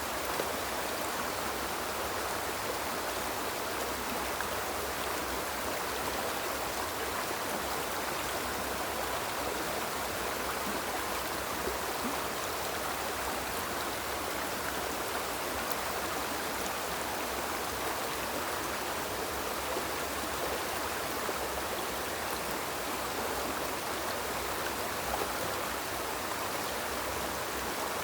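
Small river flowing over stones, a steady rushing and burbling of water.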